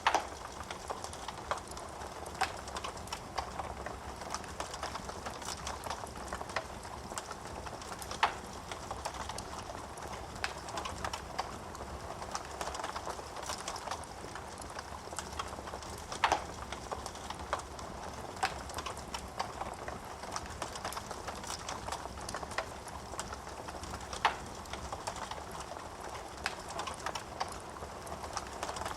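Wood fire crackling in a fireplace: a steady hiss of flames with quick, irregular snaps of burning wood, and four louder pops about eight seconds apart.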